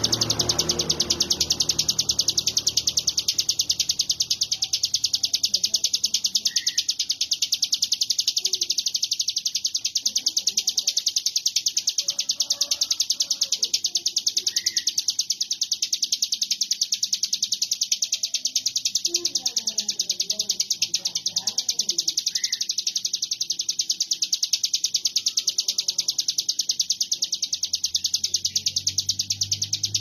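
Ciblek gunung, a small prinia, singing a rapid, unbroken chatter of fast-repeated high notes, with a short higher note about every eight seconds.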